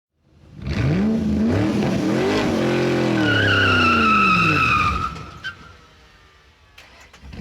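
A vehicle engine revs up and down, with a high tyre squeal over it for the last couple of seconds of the rev, then a few sharp clicks.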